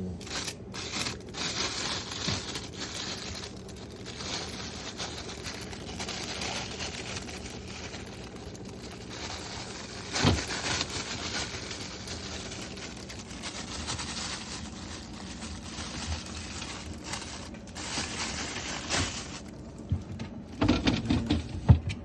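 Food containers and packages being handled and moved about in a refrigerator: steady rustling and scraping with small clicks, a louder knock about ten seconds in and several more knocks near the end.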